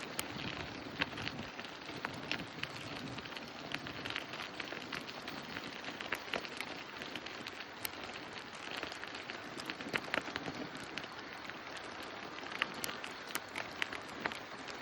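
Outdoor ambience on a moving bicycle: a steady hiss with dense, irregular crackling clicks throughout.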